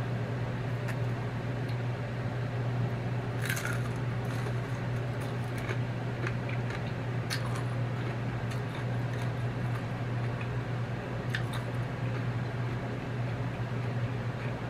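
Chewing a crispy air-fried chicken egg roll, with a few short crunches, the sharpest about three and a half seconds in, over a steady low hum.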